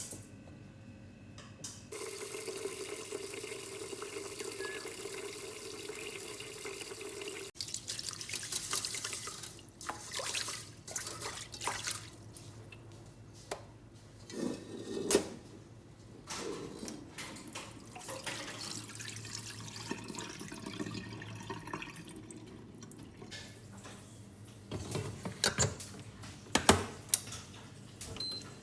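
Kitchen tap running into a sink for several seconds, then scattered clinks, knocks and splashes, as of things being handled at the sink.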